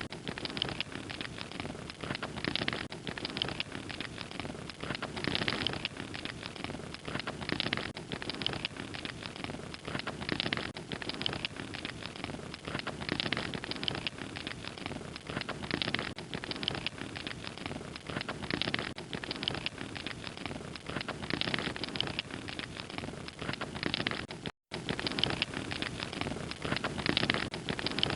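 Wood fire crackling steadily, with a dense run of small pops and snaps. About three-quarters of the way through, the sound cuts out completely for a split second, then resumes.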